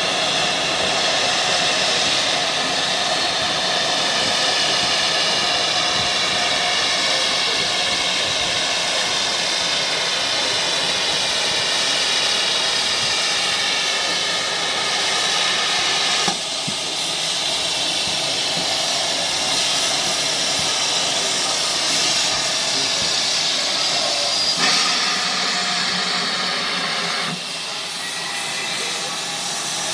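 Steam locomotive letting off steam, a loud steady hiss that changes abruptly in strength a few times.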